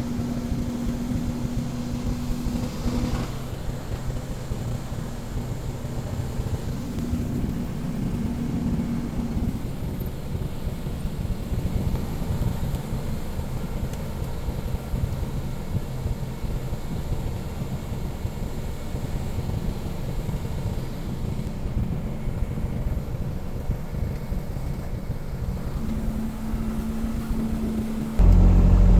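Cessna 177 Cardinal's piston engine running at low power, a steady drone with a hum heard from the cabin. Near the end it becomes suddenly louder and deeper.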